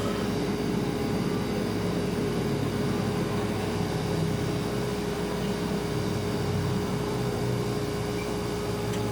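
Refrigerator running with a steady hum: one constant clear tone over a low rumble, holding even throughout.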